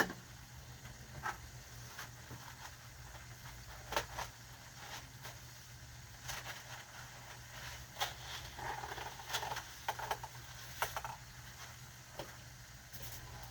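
Scattered light knocks and taps of cookware and utensils, a dozen or so spread over several seconds, over a faint steady hum.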